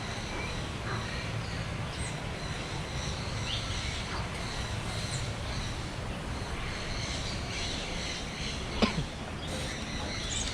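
Aviary ambience: assorted birds giving short, scattered high chirps and calls over a steady low background rumble. There is one sharp click about nine seconds in.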